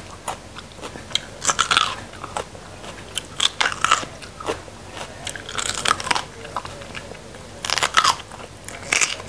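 Raw bitter melon being bitten into and chewed, crisp crunches coming in clusters roughly every two seconds.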